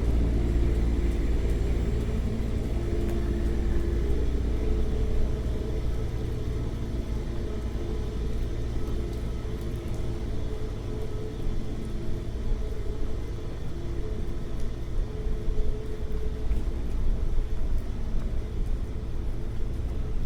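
Street traffic: a motor vehicle's engine running close by with a steady low rumble and hum.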